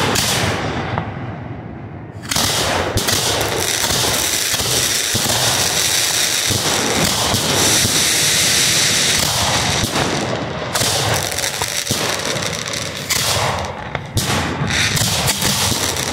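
Fireworks firing at close range from hand-lit wooden racks of mortar tubes: a dense, continuous run of launches and crackling, dipping briefly about a second in and again near ten seconds.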